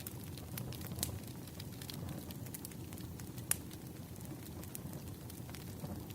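Wood fire crackling: irregular sharp pops and snaps over a low, steady rumble of burning logs, with the loudest pop about halfway through.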